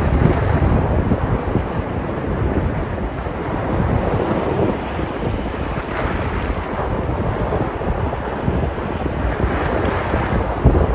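Sea surf washing onto the shore as a steady rushing noise that swells about six and ten seconds in as waves break. Wind buffets the microphone, adding a low rumble.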